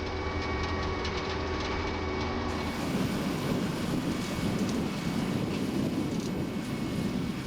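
Vermeer ZR5 1200 self-propelled baler running: a steady engine hum that changes abruptly about two and a half seconds in to a rougher, noisier machine sound.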